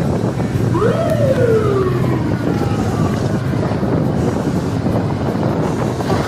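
A siren sounds one wail about a second in, rising quickly and then falling slowly, over the steady noise of traffic.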